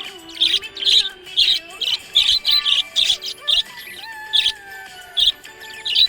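Budgerigar chirping: a dozen or so short, sharp, high chirps in quick irregular succession, over a faint sustained melodic tone.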